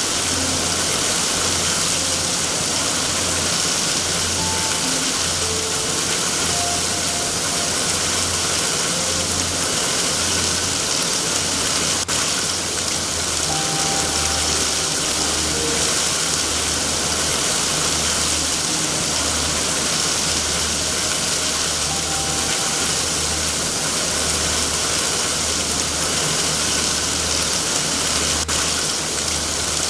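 Steady heavy rain, a dense even hiss, with a low throb pulsing about once a second underneath.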